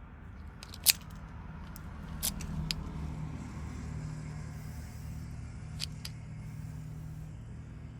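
A few sharp, small metallic clicks of a Ford wafer lock cylinder and its key being handled, the loudest about a second in and a close pair near the end, over a low steady hum.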